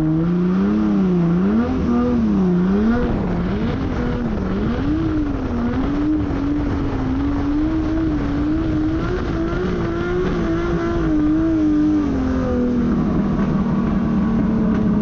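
The 1.5JZ straight-six in a KE70 Corolla drift car revs hard, its pitch swinging quickly up and down as the throttle is worked through a slide. It then holds high and wavering before dropping to a lower steady note about twelve seconds in.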